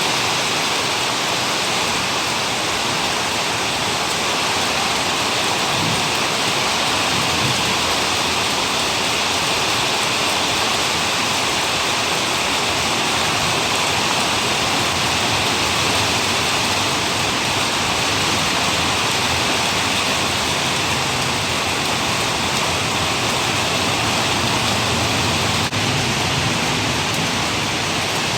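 Heavy rain pouring down steadily, a dense, even rush of drops that never lets up.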